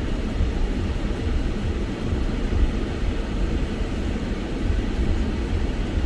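Steady low rumble of a moving vehicle, engine and road noise with no distinct events.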